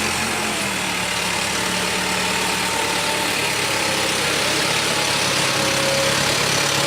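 Truck engine running steadily at a low, even speed, its pitch drifting slightly.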